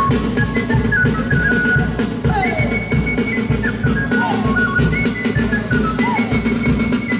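Live band music: a steady drum beat with a high melody line over it, its notes held and sliding in pitch.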